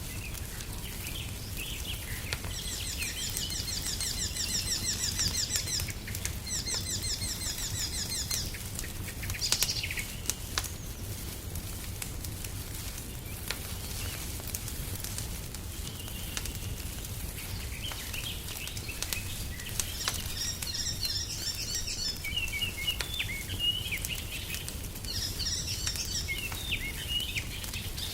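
Songbirds singing in rapid trilled phrases, in two spells: a few seconds in, and again through the second half. Underneath, a wood fire crackles with scattered sharp pops over a steady low rumble.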